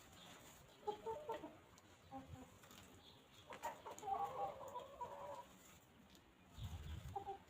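Hens clucking: a few short clucks about a second in, then a longer drawn-out clucking call around four to five seconds, with a brief low rumble near the end.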